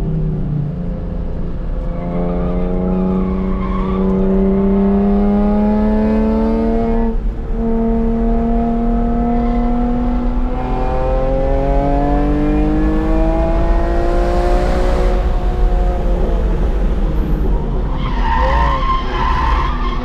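BMW E46 M3's S54 straight-six heard from the cabin at full load on track, climbing steadily in pitch through the revs with a brief break for a gear change about seven seconds in, then pulling up again. Near the end the tyres squeal briefly through a corner.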